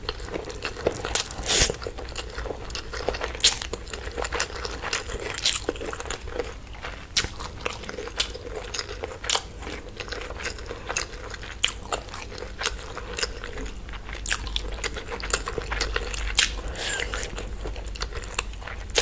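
Close-up eating sounds of a person chewing and biting chicken curry with rice: irregular wet mouth smacks and clicks throughout.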